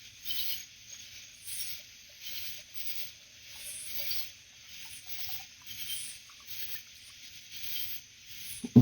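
Night insects chirping in a chorus, short high pulses repeating about once a second.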